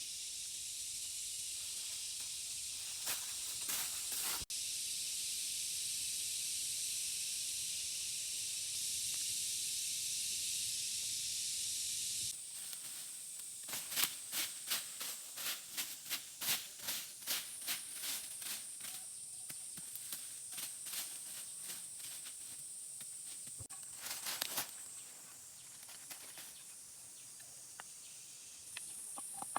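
Insects calling: a steady high-pitched chorus, then, after an abrupt change, a run of loud pulsing calls about two a second over a thin, steady high whine.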